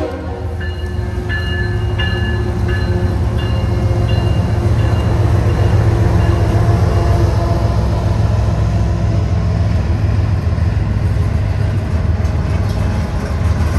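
GE diesel locomotives of a CSX freight train passing slowly through a grade crossing, their deep engine rumble building to its loudest in the middle. A bell dings repeatedly for the first few seconds.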